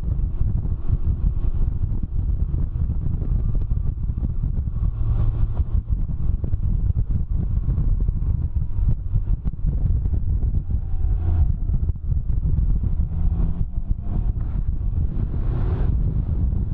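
Heavy wind buffeting on the microphone while riding a Can-Am Ryker three-wheeled motorcycle, with the engine running underneath it.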